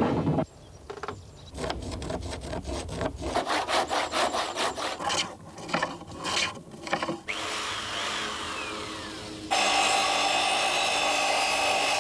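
Wood being sawn by hand: a run of quick, uneven saw strokes. About seven seconds in it gives way to a steady rasping sound, which gets louder about two seconds later.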